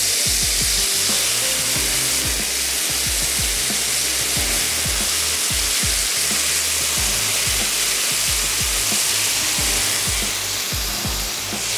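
Chicken and vegetables frying in hot oil over a high flame, a steady sizzle, with a spoon stirring and knocking in the pan.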